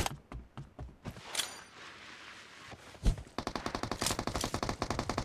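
Video-game gunfire: a few scattered single shots, then a long burst of rapid, evenly paced automatic fire starting about three and a half seconds in.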